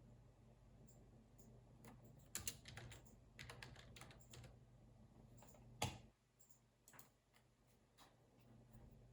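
Computer keyboard typing in short, irregular runs of keystrokes, with one louder key strike about six seconds in and a few scattered taps after it. A faint low hum under the typing cuts off about six seconds in.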